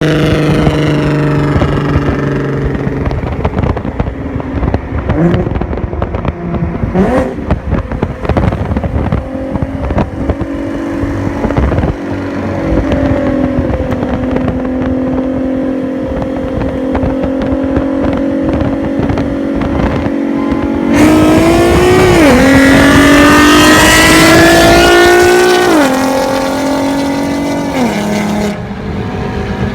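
Sports car engine and exhaust at idle with a couple of quick throttle blips, then a hard acceleration through the gears: the engine note climbs, drops back at each upshift, and eases off near the end.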